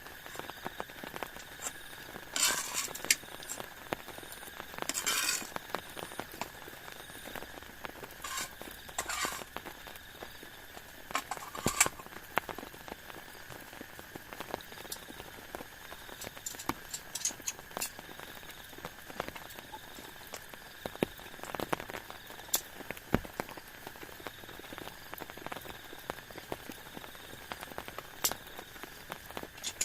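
Raindrops pattering and dripping in irregular taps over a low steady hiss, with a few brief rustling bursts.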